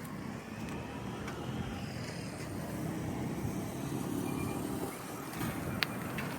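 A road vehicle's steady rumble, swelling as it passes about four seconds in, with a sharp click near the end.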